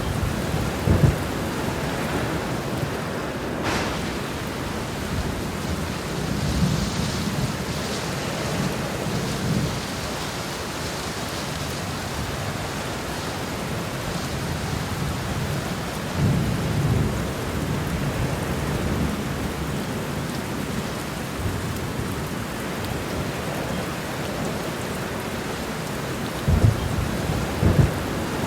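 Heavy rain falling steadily, with thunder rumbling low several times and two sharp close claps near the end.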